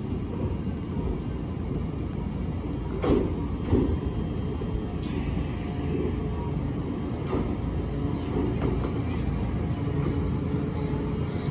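Nagano Electric Railway 1000 series 'Yukemuri' limited express electric train rolling slowly past the platform with a steady low rumble. Two knocks from the wheels on the track come about three seconds in, and from about halfway a thin high squeal from the wheels sets in and carries on.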